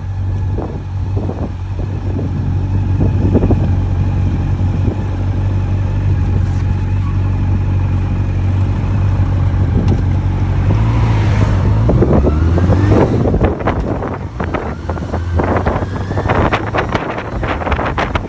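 Honda CB400 Super Four Revo (NC42) fuel-injected inline-four with a Yoshimura exhaust, heard on the move: a steady engine note for about ten seconds, then the engine note changes with a rising pitch around twelve seconds in. In the later part, wind buffets the microphone in gusts over a softer engine sound.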